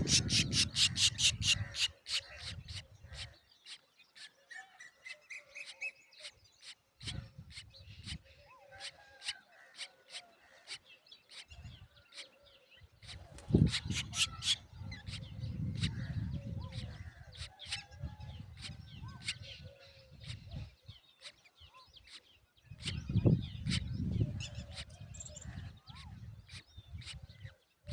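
Drongo nestlings chirping: a fast, even run of sharp high chirps at the start, then scattered chirps, with low rustling and bumping at the nest now and then.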